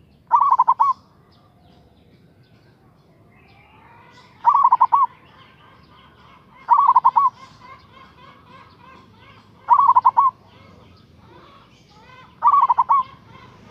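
Zebra dove (Javanese perkutut) singing: five short calls, each a quick rolling run of coos, repeated every two to three seconds, with faint chirping of other birds behind.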